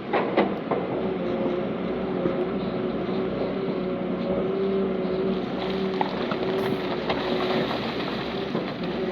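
Heavy diesel earthmoving machinery running steadily with a constant droning hum, with a few sharp clanks and knocks, the loudest about half a second in.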